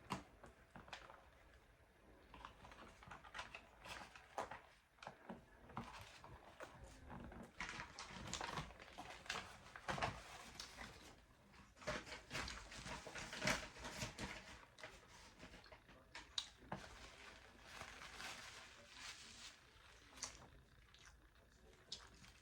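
Faint, irregular wet clicks and crunches of a person chewing a bite of a breaded chicken burger close to the microphone.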